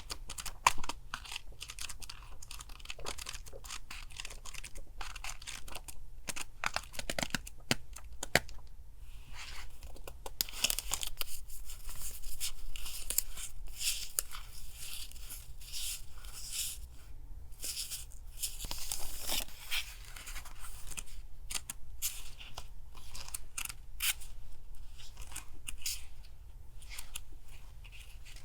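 Paper being handled close up: irregular tearing, rustling and crinkling of paper craft materials, with louder stretches about ten seconds in and again near twenty seconds. Under it runs a steady low hum from a refrigerator near the desk.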